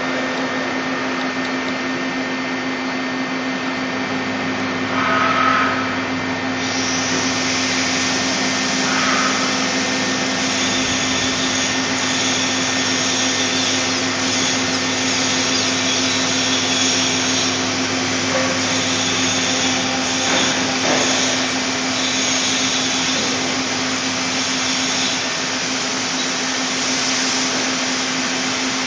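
Puma 350 CNC lathe running: a steady hum under a broad hiss that grows brighter about seven seconds in, with a couple of short higher tones near the start.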